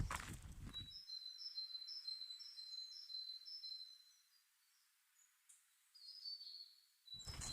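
A small bird singing: runs of quick, high chirping notes, with a short break about halfway through.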